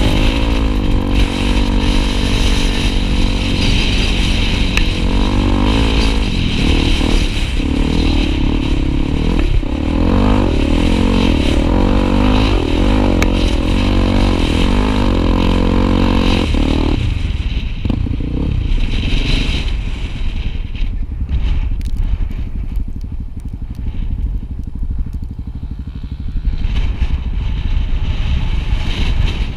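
Single-cylinder Honda Tornado trail motorcycle engine running loud, its pitch rising and falling with the throttle, over wind rumble on the microphone. About halfway through the engine note drops away, leaving mostly wind and road rumble before it picks up again near the end.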